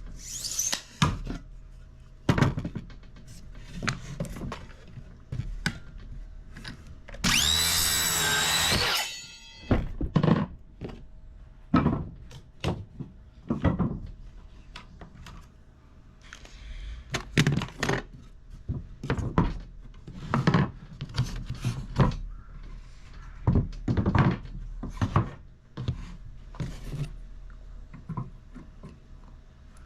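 Wooden boards and tools being handled in DIY woodwork: a series of separate knocks and clunks, with a power tool running in one burst of about a second and a half roughly a quarter of the way through.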